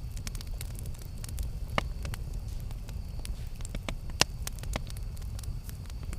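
Campfire burning, with a steady low rumble and irregular sharp crackles and pops; the two loudest pops come about two seconds in and about four seconds in.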